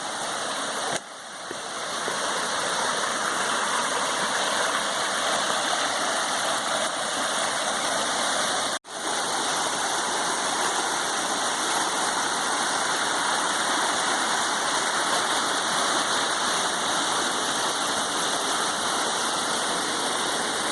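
Steady rushing of a small river waterfall, water pouring over rocks. The sound briefly cuts out twice, about a second in and again midway.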